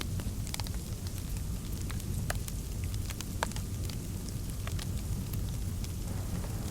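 Fireplace fire crackling: scattered sharp pops over a steady low rumble, with a soft hiss growing near the end.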